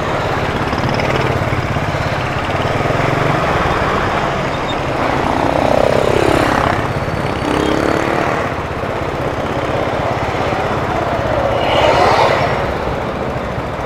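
Motorcycle engine running while riding in traffic, a steady drone whose pitch falls and rises twice as the throttle changes.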